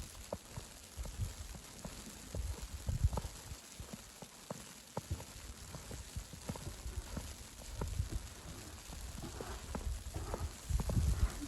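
Footsteps crunching through snow, with many irregular small ticks over a low rumble that swells a few times, loudest near the end.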